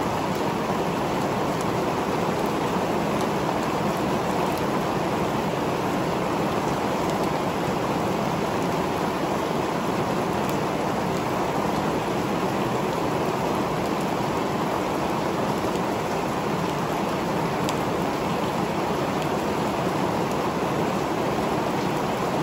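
Rain pouring steadily in a thunderstorm: a dense, even hiss with faint scattered ticks of drops striking.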